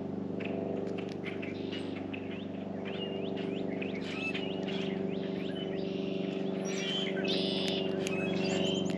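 Several small songbirds chirping and calling, short quick notes that grow busier in the second half, over a steady low hum.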